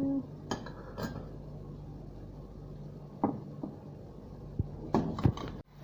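Kitchen utensils clinking and knocking against cookware, a handful of separate strikes over a low steady hum.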